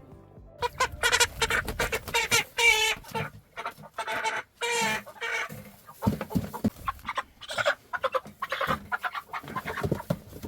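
Chickens clucking and squawking in a rapid, continuous series of loud calls, starting about half a second in.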